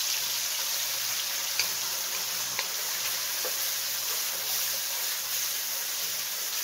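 Ground green seasoning paste sizzling steadily as it fries in hot oil in a wok-style pan while being stirred with a wooden spoon, with a few faint clicks.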